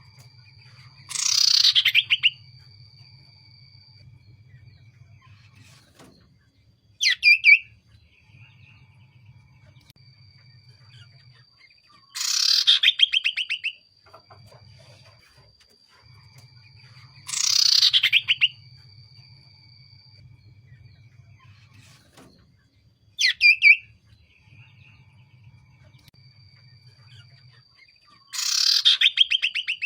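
Common iora (cipoh) calling: a rapid pulsed trill about a second long that slides downward, given four times, with two short sharp notes in between. A faint steady high whine and an on-and-off low hum run underneath.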